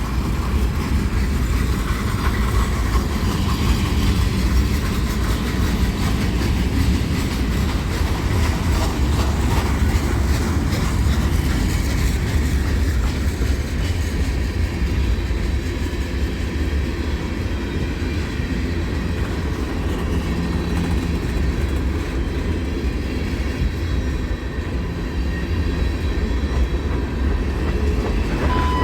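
Train rolling past at track speed: a steady rumble of steel wheels on the rails with clickety-clack over the rail joints.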